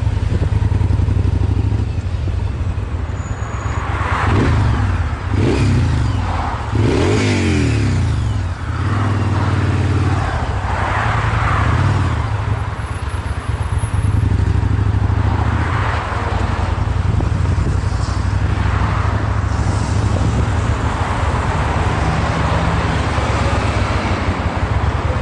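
Yamaha BT1100 Bulldog's V-twin engine running through LeoVince SBK aftermarket silencers, a steady low rumble with the revs rising and falling several times, mostly in the first half.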